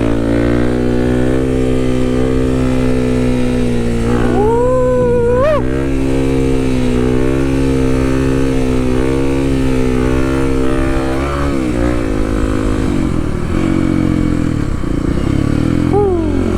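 Kawasaki KLX300's single-cylinder four-stroke engine running at a fairly steady speed, with a brief rise in pitch about four to five seconds in and a drop near the end.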